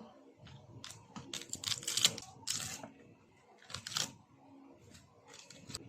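Irregular clicks and clatter of kitchen utensils and dishware, thickest in a quick run through the middle, with a faint steady hum underneath.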